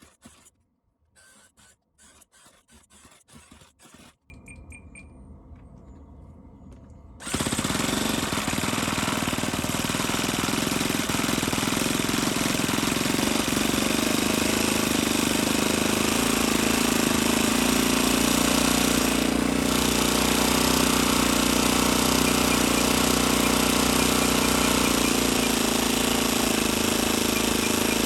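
Saito 50 four-stroke model glow engine running loud and steady, coming in suddenly about seven seconds in after a few quieter seconds.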